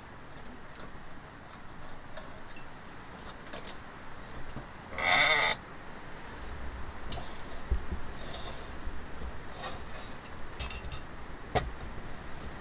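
Blustery wind rumbling on the microphone, with scattered sharp ticks and flaps. About five seconds in there is one short, wavering, bleat-like animal call, the loudest sound here.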